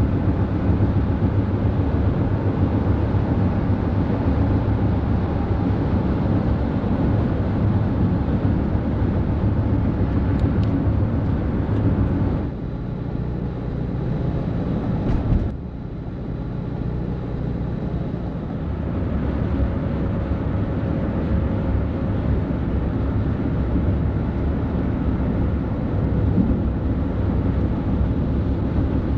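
Highway traffic with heavy trucks passing: steady diesel engine and tyre noise, with two abrupt changes in the middle.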